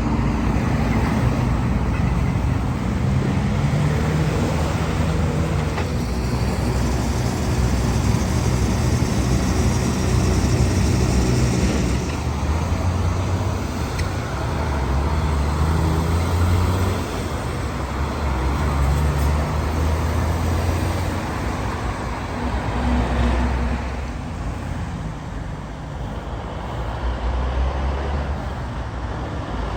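Road traffic with heavy diesel semi-truck engines running past, their low engine note changing pitch from one stretch to the next over tyre noise.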